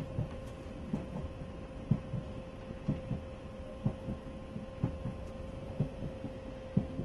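Train cab in motion: a steady electric hum under a low rumble, with dull knocks about once a second as the wheels pass over rail joints.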